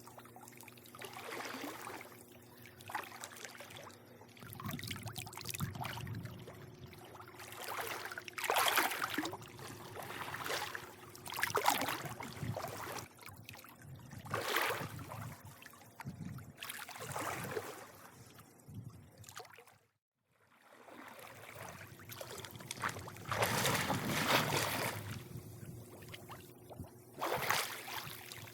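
Pool water lapping and sloshing in irregular surges of varying loudness, cutting out briefly about twenty seconds in.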